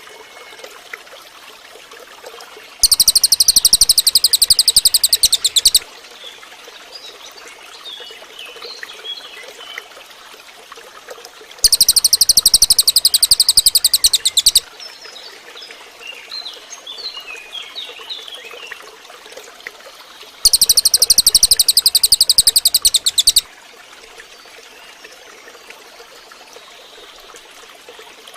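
Cililin bird singing: a loud, very rapid high trill of about three seconds, given three times about nine seconds apart. Fainter scattered chirps and a steady background hiss fill the gaps.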